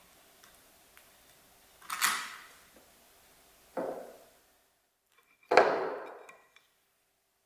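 Tableware being handled during breakfast: three separate knocks, each trailing off briefly, the third the loudest.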